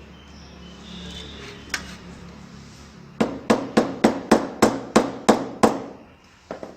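Hammer tapping: a single knock, then a quick run of about ten sharp strikes at about four a second, and one last tap near the end.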